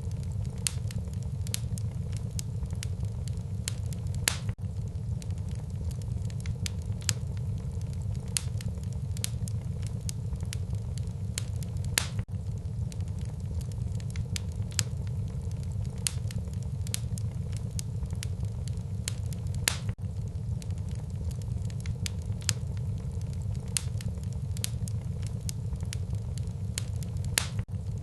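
Wood fire burning in a fireplace, crackling with sharp irregular pops several times a second over a steady low rumble of the flames.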